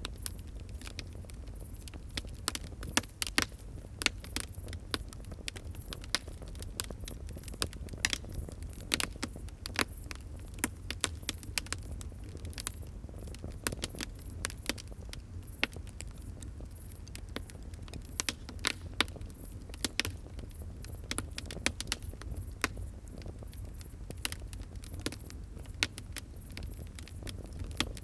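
Wood fire burning with a low steady rumble and irregular crackling, many small snaps a second with sharper pops scattered throughout.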